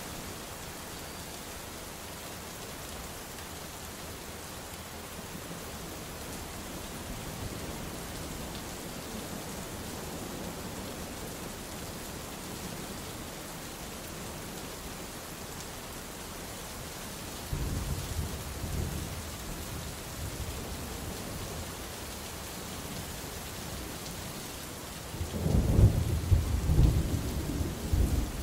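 Steady rain falling through a thunderstorm. Low thunder rumbles twice: a shorter roll partway through and a louder, longer one near the end.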